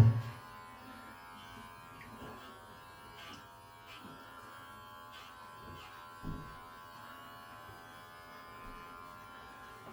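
Electric pet hair clippers running with a steady buzz while clipping a cat's fur, with one brief low thump about six seconds in.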